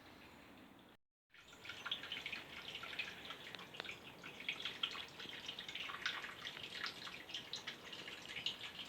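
Water trickling and dripping: a dense, irregular patter of small drips and splashes, like a shallow stream. It starts after a brief cut to silence about a second in, before which there is only faint outdoor background.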